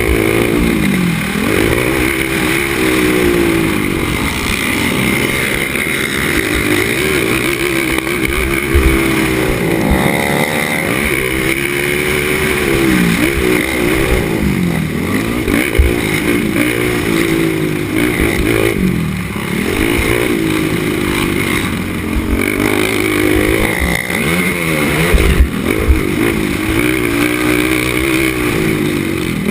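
Race ATV engine heard onboard, revving up and dropping back again and again as the quad accelerates, shifts and slows for turns, with low rumble and occasional knocks from the track.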